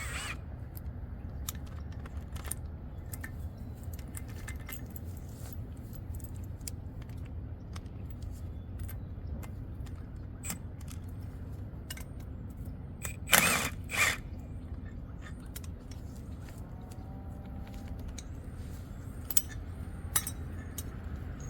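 Hand wrenches working the bonnet bolts of a fire hydrant: scattered light metallic clicks and ratcheting, with two louder metal clanks about halfway through, over a steady low hum.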